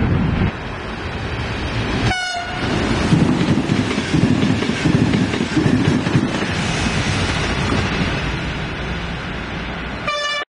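A train running, with a steady rumble of wheels and carriages on the rails and two short horn toots, one about two seconds in and one near the end.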